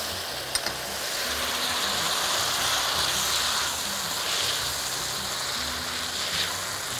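Okra, onion and garlic frying in oil in a hot wok, a steady sizzle. There are a couple of short clicks about half a second in and another near the end.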